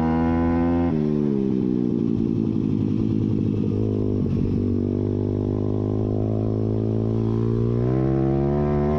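YCF pit bike's single-cylinder four-stroke engine running under way, its exhaust open with the spark arrestor removed. The engine note drops about a second in, holds lower, and climbs again near the end.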